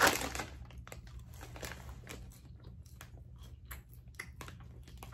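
A paper fry bag crinkles once at the start, then a person chews French fries close to the microphone, with many small scattered mouth clicks.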